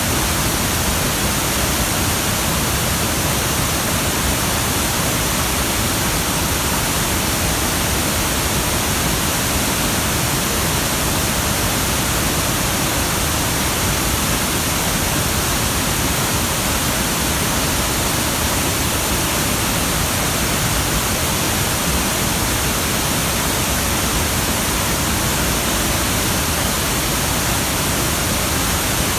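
Waterfall in heavy flow, swollen by rain: a steady, loud rush of falling water.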